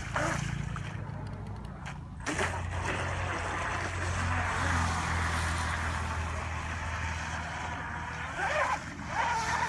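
RC outrigger racing boat's motor running with a steady low drone, shifting suddenly about two seconds in.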